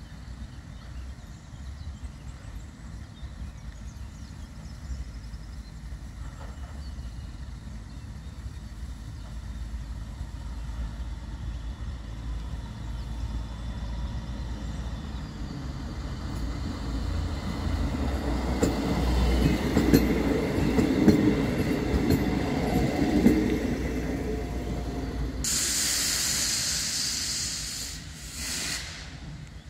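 Trains rumbling at a station: a diesel railcar comes closer and rolls past, growing louder with wheel clicks from about 17 to 24 seconds in. Then, about 25 seconds in, the Ol49 steam locomotive gives a loud hiss of steam for two or three seconds, with a short second burst just after, as it gets under way.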